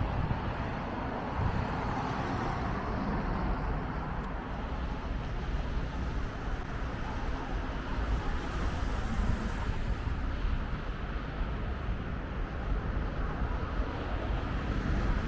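Steady city street traffic noise, a low rumble of passing cars.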